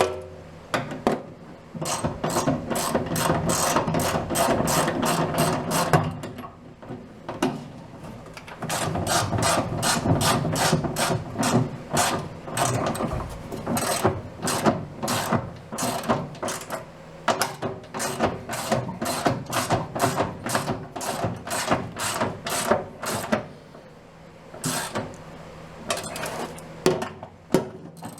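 Hand ratchet wrench working a bolt, clicking rapidly at several clicks a second in long runs of strokes with short pauses between.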